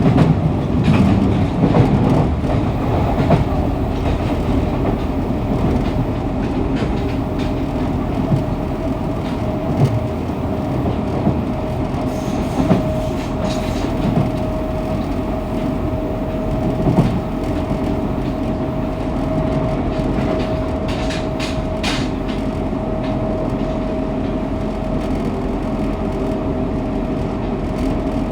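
Fukuoka City Subway 2000 series train running at speed between stations, heard from the car floor: a steady rumble of wheels on rail with a steady tone through most of it and scattered sharp clicks as the wheels pass rail joints.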